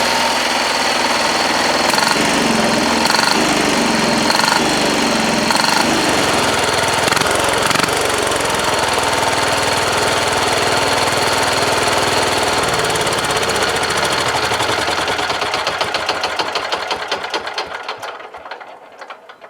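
The diesel engine in a 1967 Wheel Horse 1067 garden tractor runs steadily, warmed up after a freezing cold start. About fourteen seconds in it is shut off: its firing strokes slow and die away near the end.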